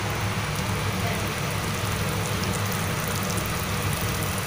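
Fern shoots sizzling in a hot wok with oil and a little water, a steady crackle, over a steady low hum.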